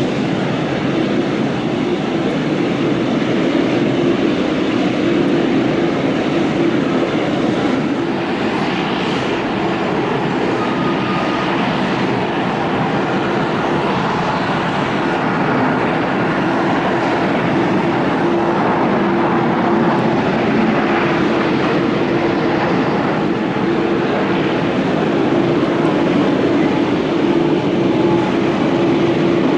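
Jet airliner engine noise at the airport: a continuous, steady rush with a steady low hum underneath.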